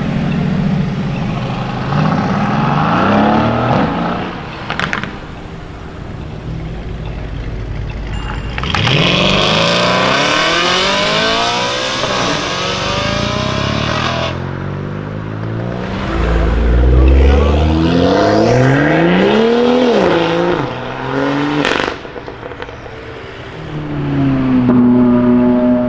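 High-performance car engines accelerating hard one after another, each note climbing in pitch and dropping back at the gear changes. A short, deep low rumble comes a little past halfway.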